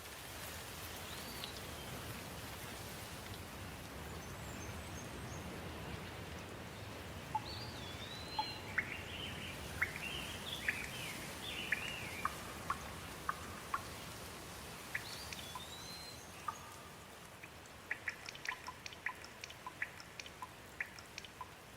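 Steady rain falling, with birds calling through it: a few short whistled calls and, in the middle and near the end, flurries of short sharp chirps and ticks.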